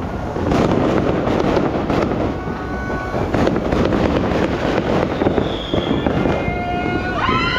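New Year's fireworks and firecrackers going off all around: a continuous dense crackle of rapid pops and bangs, with a few high whistles over it and a wavering whistle-like tone near the end.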